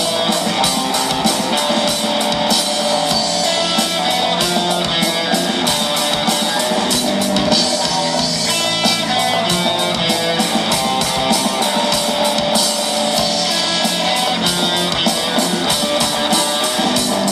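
A rock band playing an instrumental passage of a song, with guitar over a steady drum-kit beat and no singing.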